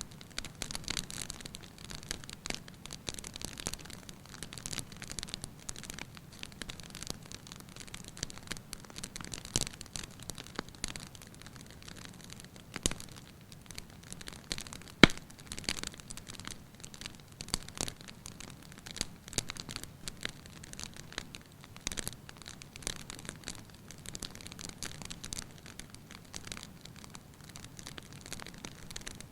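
Wood fire crackling in a fireplace: a steady hiss full of irregular small snaps and pops, with one sharp, louder pop about halfway through.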